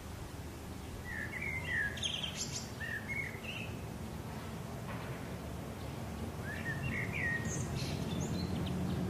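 Birds chirping in two short runs, about a second in and again about seven seconds in, over a steady low background rumble.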